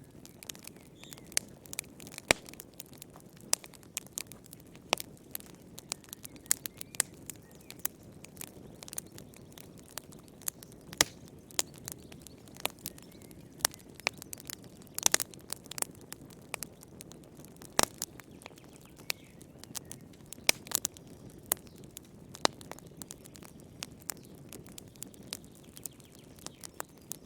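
Wood fire burning in a fireplace: irregular sharp crackles and pops, many per second, some louder snaps, over a low steady hiss of the flames.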